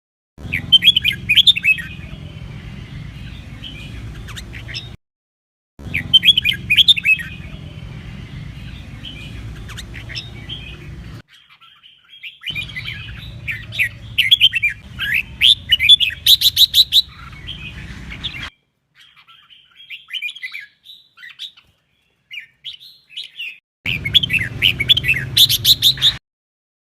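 Red-whiskered bulbul singing: bursts of loud chirping phrases with fast rattling trills, in several stretches that start and stop abruptly, over a low steady hum.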